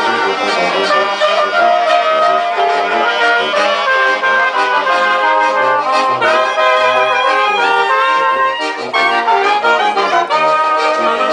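A brass band playing a tune: several horns sounding held melody notes over a short, bouncing bass line.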